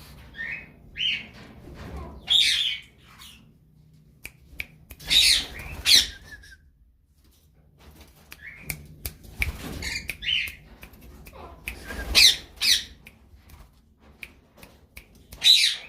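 Pet parakeets squawking and chirping in short harsh calls, in scattered bursts with brief pauses between them.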